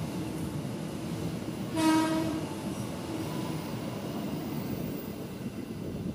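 Passenger train carriages rolling past a station platform with a steady rumble, and a short train horn blast about two seconds in.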